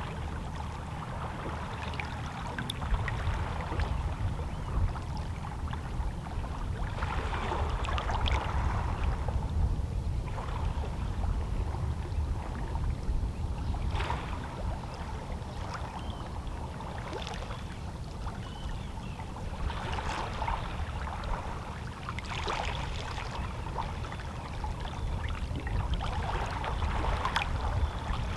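Small, lazy sea waves lapping and splashing against shoreline rocks, a soft splash every few seconds over a steady low rumble.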